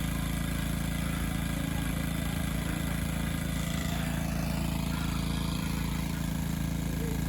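Excavator's diesel engine running at a steady speed, a constant even hum with no change in pitch.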